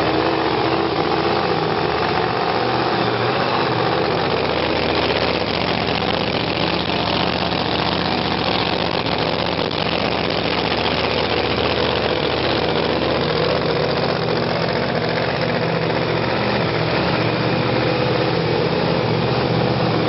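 Drag car's engine idling steadily, loud and close.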